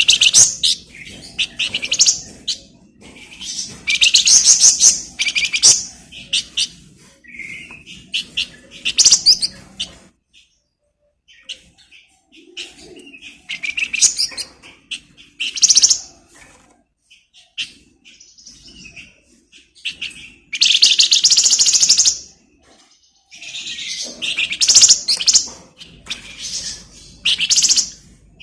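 A 'flamboyan' songbird, as Indonesian bird-keepers call it, singing in loud bursts of scratchy, rapid rattling chatter. The phrases last a second or two each and come with short pauses between them, with a longer pause about a third of the way in.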